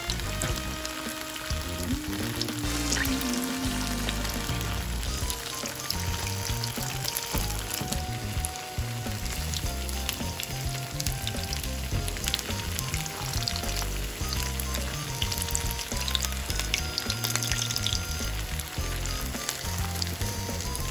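Potato-starch-coated tofu blocks shallow-frying in hot oil in a frying pan: a steady, dense crackling sizzle. Quieter background music with held notes runs underneath.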